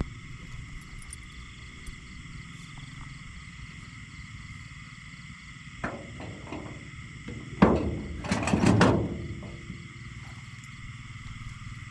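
A steady chorus of night insects and frogs, high and even. Two louder, short knocking or splashing bursts come about six and eight seconds in.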